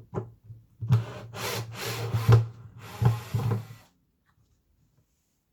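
A tool scraping and rubbing on wood in several strokes for about three seconds, after two short knocks at the start.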